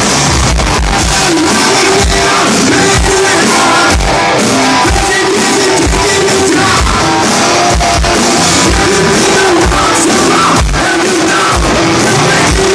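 Rock band playing live at high volume: electric guitars, a steady drum beat and a singer over them.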